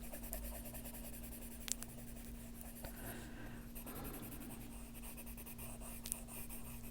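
Faber-Castell Polychromos colored pencil shading on paper: soft, steady scratching strokes, with a few light ticks and a faint steady hum beneath.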